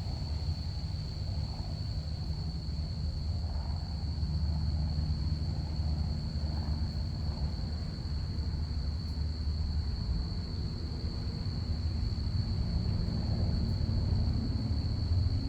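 Crickets chirping in a steady, unbroken high-pitched trill over the low rumble of a distant passing airplane, which grows a little louder near the end.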